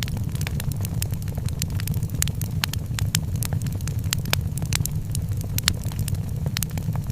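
Wood fire crackling in a fireplace, with frequent sharp, irregular pops and snaps over a steady low rumble.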